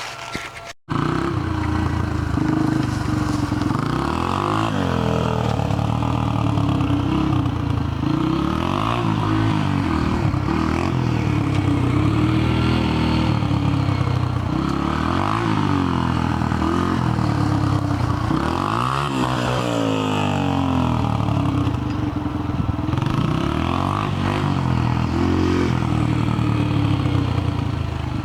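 2000 Yamaha TTR125's single-cylinder four-stroke engine, loud through a washer-modded exhaust, revving up and down while ridden. It cuts in abruptly about a second in, and its pitch climbs and drops every couple of seconds.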